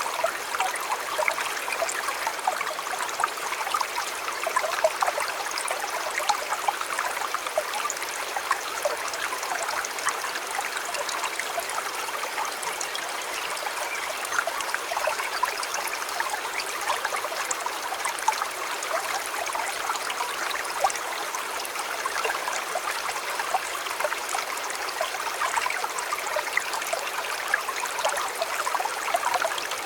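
A shallow river or stream flowing steadily over stones, a continuous splashing and trickling rush with many small bubbling flickers.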